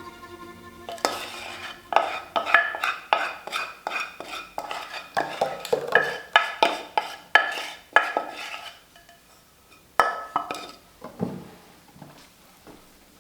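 A kitchen utensil clinking against a dish in a rapid run of ringing knocks, about two or three a second, then a few single clinks near the end.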